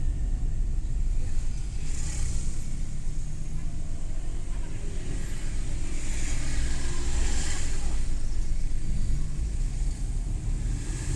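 Suzuki Every Wagon (DA64W) kei van driving: a steady low engine and road rumble, with three brief swells of higher hiss, about two seconds in, around six to seven seconds, and near the end.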